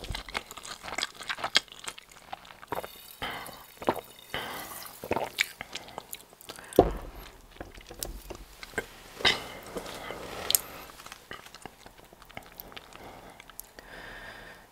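Close-miked eating sounds: a mouthful of giant cheese ball bread being chewed, with irregular wet mouth clicks and smacks.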